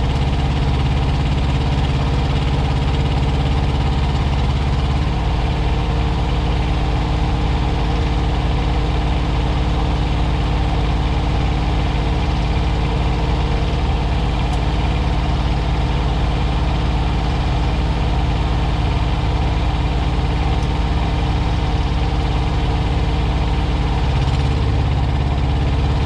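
Semi truck's diesel engine idling steadily while it warms up after its cooling system was bled. The idle note shifts slightly about five seconds in and again near the end.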